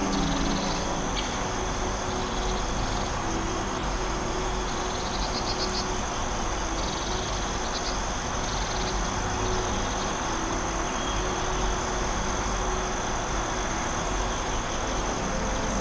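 Forest ambience of insects: a steady high chirring drone, with short rapid pulsed trills coming and going, over a steady rushing background.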